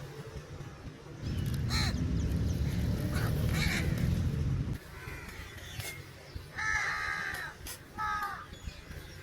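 Crows cawing: several separate caws, the loudest about seven seconds in. A low rumble underlies the first half and stops about five seconds in.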